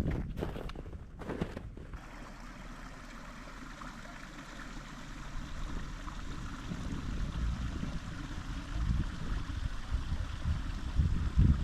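Steady running water, like a stream or trickle, with a few knocks in the first two seconds and low rumbles later on.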